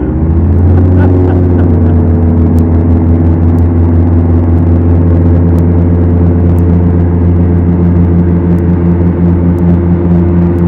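Twin four-cylinder Lycoming engines of a Beechcraft Duchess heard from inside the cabin, loud and steady; the engine note climbs over about the first second as power comes up, then holds.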